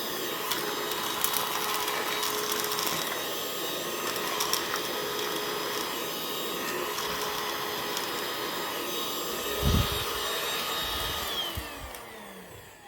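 Parkside Me PMSSA 8 A1 cordless handheld vacuum cleaner running with a steady whine, small debris clicking as it is sucked in, and a thump near 10 s. Near the end it is switched off and the motor winds down, its pitch falling.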